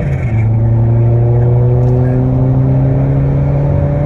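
Tuned Seat Leon Mk3 1.6 TDI four-cylinder diesel with a big 1449 turbo, under hard acceleration, its pitch climbing steadily. About a quarter of a second in, the pitch drops briefly as the DSG gearbox shifts up, then it climbs again.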